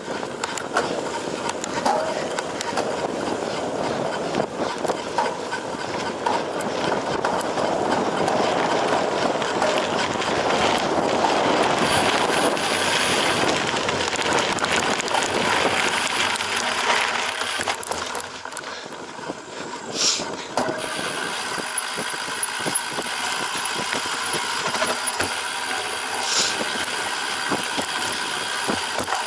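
Cyclocross bike ridden over rough ground: steady tyre noise full of rattling clicks and knocks from the bike, loudest around the middle and easing off somewhat in the later part.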